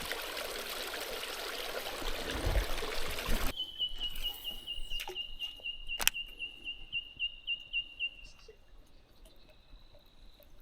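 Running water, a steady rush that stops abruptly about a third of the way in. Then a high, even chirping call repeated about three times a second for some four seconds, with a sharp click partway through.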